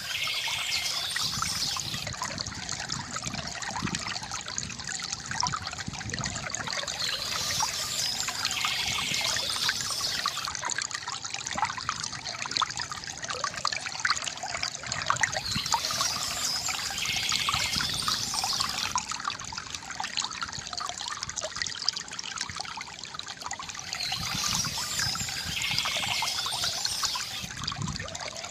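Shallow stream trickling and gurgling steadily over stones, with a brighter, higher hiss swelling in about every eight seconds.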